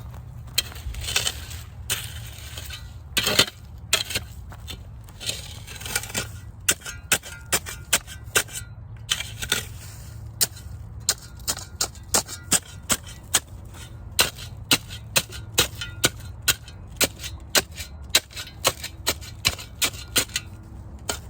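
A long, even series of sharp clicks or taps, about two to three a second, with a few short scraping sounds in the first half.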